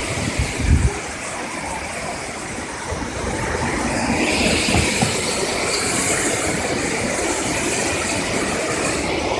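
Waterfall: a steady rush of falling water, with a few low bumps of wind or handling on the microphone in the first second.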